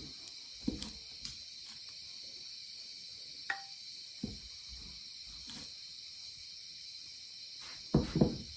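A steady high-pitched chorus of insects such as crickets. Over it come scattered soft knocks and thumps, with two louder thumps near the end.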